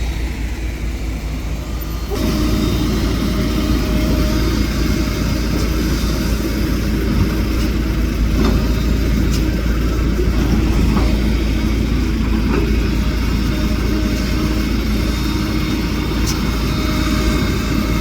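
Heavy diesel engine of earth-moving machinery running steadily with a deep rumble, getting louder about two seconds in, with a few faint clicks and knocks.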